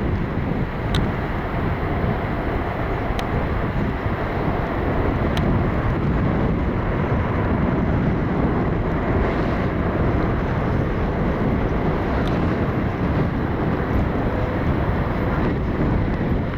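Steady rumbling noise of wind buffeting the microphone, mixed with the rumble of a Boeing 747-8F's jet engines, holding level throughout.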